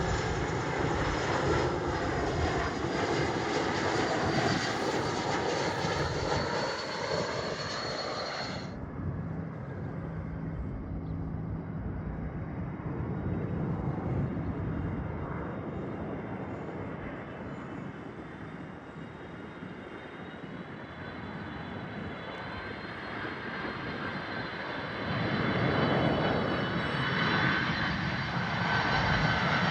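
Jet airliner engines running loud with a high turbine whine, which cuts off abruptly about a third of the way in. A quieter, distant jet rumble follows, then another jet airliner grows loud with its own whine near the end.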